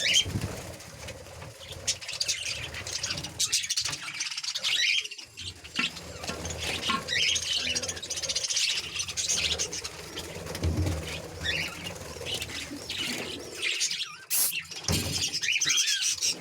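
Budgerigars chirping and chattering, with many high calls overlapping without a break.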